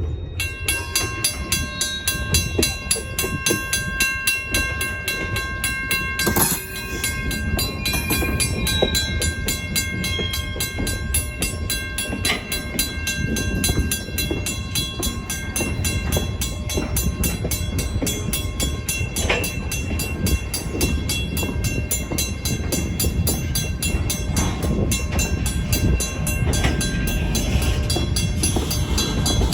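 Railroad crossing's first-generation WCH mechanical bell clanging rapidly and evenly, starting just after the beginning, over the low rumble of a train shoving rail cars through the crossing.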